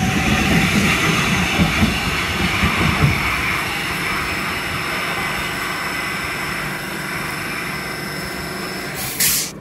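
Electric multiple-unit passenger train slowing as it runs into the platform. The wheels rumble and clatter over the rail joints for the first few seconds, then ease into a steadier hiss with a faint high whine as it nears a stop. A short sharp hiss comes near the end.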